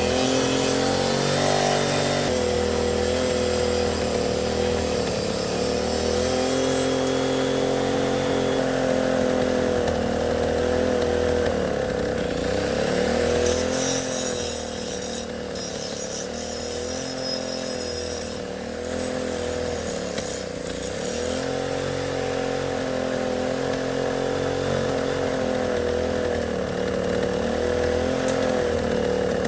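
Gasoline engine of a 5.5 kW portable generator running steadily, its pitch wavering slightly and getting somewhat quieter about halfway through before picking back up.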